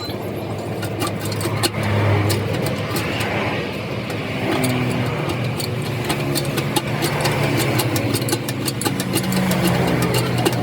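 A motor vehicle's engine running, its pitch shifting a few times, with many short sharp clicks over it.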